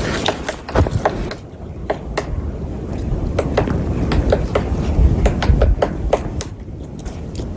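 White-backed woodpecker pecking at wood: irregular sharp taps, several a second, over a low wind rumble.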